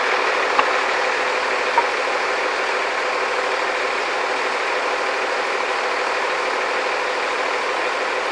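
Engine of construction machinery running steadily, with two small clicks in the first two seconds.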